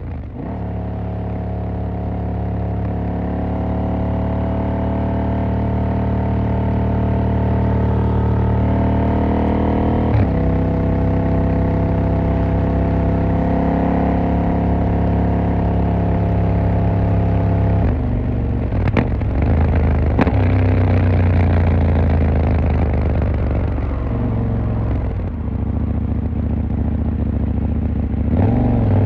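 KTM 890 Duke R's parallel-twin engine pulling at fairly steady revs while riding, with a quick gear change about ten seconds in. About two-thirds through the revs drop and the sound turns rougher, then the engine revs up again near the end.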